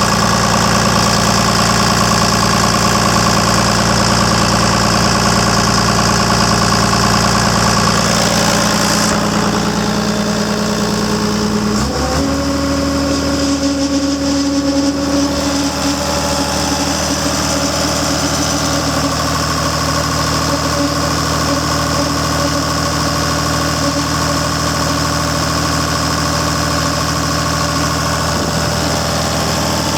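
Caterpillar D5C dozer diesel engine running steadily. About twelve seconds in it picks up speed and holds at the higher speed, after a high hiss drops away a few seconds earlier.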